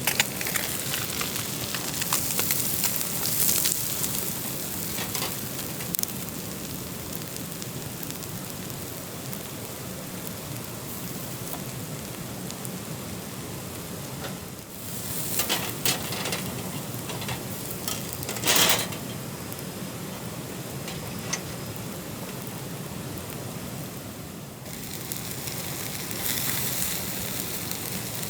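Food sizzling over a campfire: a steady hiss with fine crackles. It swells into louder hissing surges several times, once about 15 seconds in and again a few seconds later.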